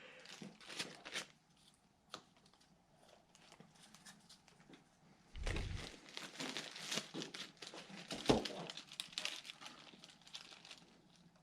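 Plastic bag crinkling and rustling as it is handled. There are a few light clicks at the start, then a quiet pause. About halfway through comes a dull thump, followed by several seconds of dense crinkling with a sharp knock among it.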